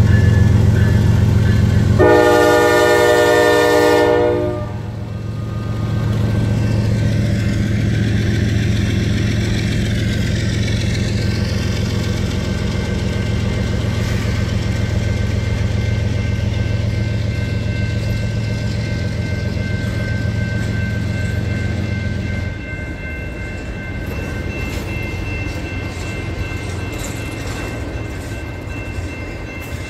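Canadian Pacific GE ES44AC diesel locomotives passing close by, engines running loud, with one horn blast of about two seconds a couple of seconds in. The engine sound drops away about three-quarters of the way through, leaving double-stacked container well cars rolling past with wheels clicking over the rail joints, while a grade-crossing bell rings.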